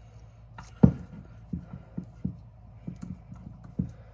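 Small metal knocks and clicks as an old carburetor and a screwdriver are handled: one sharp knock about a second in, then several lighter taps.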